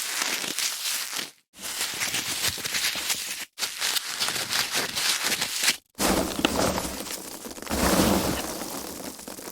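Foam packaging being handled, rubbed and squeezed in hand, with dense crackling and rustling. It comes in separate takes broken by brief silent gaps about a second and a half, three and a half, and six seconds in; the last take is fuller and heavier.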